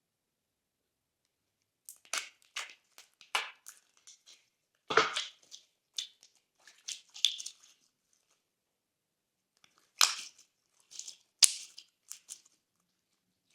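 Thick glossy slime being squeezed and pressed by hand, giving clusters of crackles and pops with short silent gaps between them. A fuller squelch comes about five seconds in, and a single sharp pop follows later.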